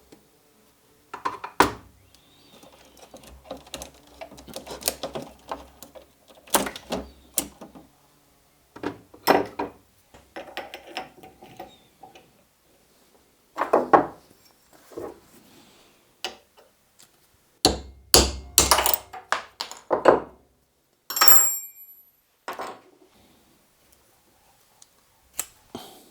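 Handling and disassembly of the model locomotive's gearbox while its broken gears are replaced: scattered knocks, clicks and taps of small plastic and metal parts and tools on a bench, with a brief ringing clink late on.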